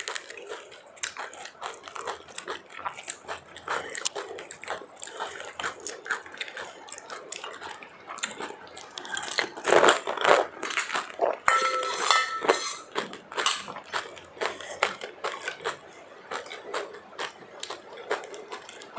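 Close-miked eating sounds: irregular chewing, mouth clicks and smacks, with clinks from a plate or spoon mixed in. The sound is busiest about halfway through.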